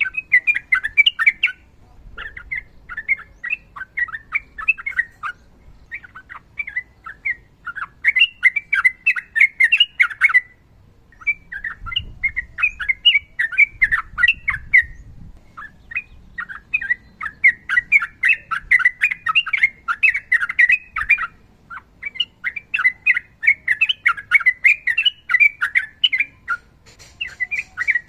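Yellow-vented bulbul (trucukan) singing long runs of quick, sharp chattering notes, phrase after phrase with only brief pauses in between.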